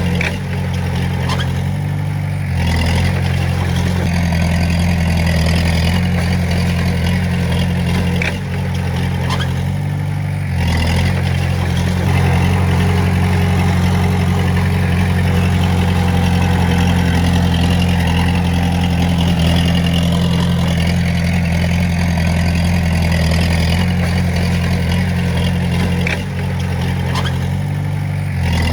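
Komatsu D20A bulldozer's diesel engine running steadily at work, dropping briefly in level about three times, with a few light clicks.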